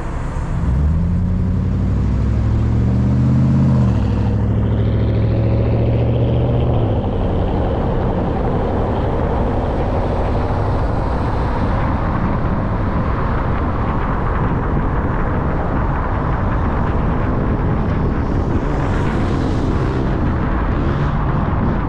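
Car engine accelerating, rising in pitch over the first few seconds and levelling off, then settling into steady driving with tyre and road noise.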